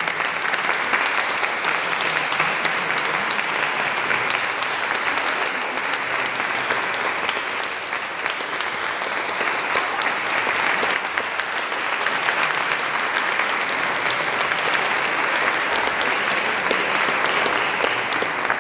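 Audience applauding steadily, a dense patter of many hands clapping that eases slightly about halfway through and then picks up again.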